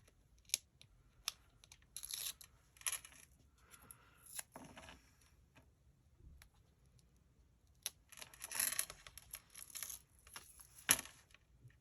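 Craft-table handling noises: short tearing and rustling of paper and foam adhesive tape being peeled and stuck, with a few sharp taps, busiest near the end.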